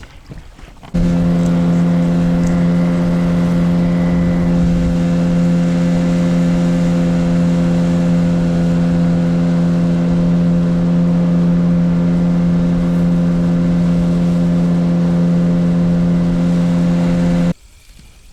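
Boat outboard motor running at a steady, constant speed. It cuts in abruptly about a second in and cuts off just as abruptly near the end.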